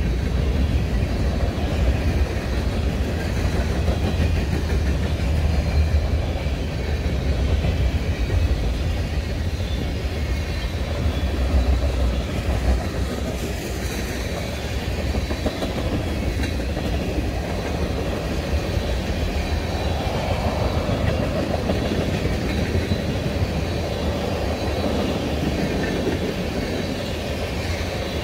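Freight train of covered hoppers and tank cars rolling past, steel wheels running over the rails with a steady low rumble that is heaviest in the first half.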